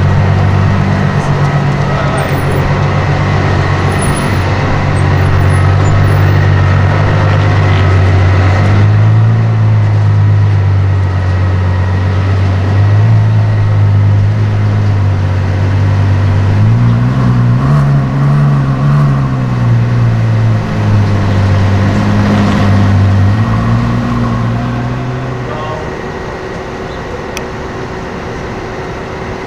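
Car engine running close by at low revs, its pitch stepping up and down a few times, with a brief rise and fall in revs about two thirds of the way through. The engine sound stops about 25 seconds in.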